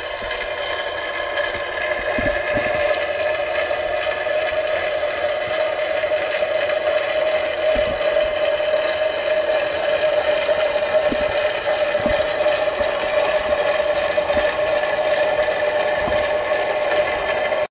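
A steady motor hum with several fixed tones over a hiss, with a few faint low thumps, cutting off suddenly at the end.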